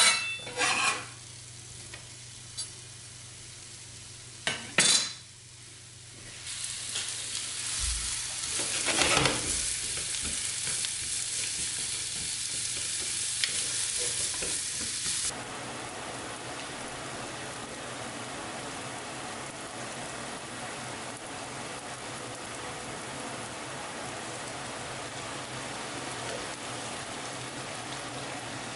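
Sliced onions sizzling in hot oil in a small rectangular tamagoyaki pan as they fry until soft, stirred with wooden chopsticks. A few knocks come in the first five seconds, the sizzle builds from about six seconds in, then drops suddenly to a quieter, steady sizzle about halfway through.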